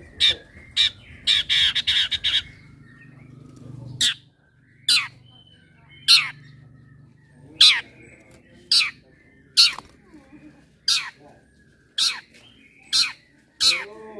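Long-tailed shrike (cendet) calling: a string of loud, sharp, downward-sweeping call notes about one a second, with a rapid chattering burst early on.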